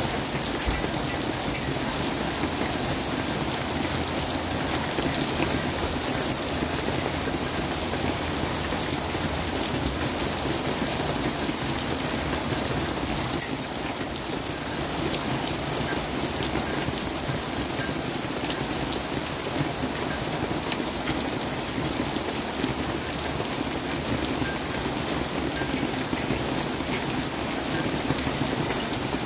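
Steady rain falling hard during a thunderstorm, a constant hiss with many sharp ticks of individual drops striking close by.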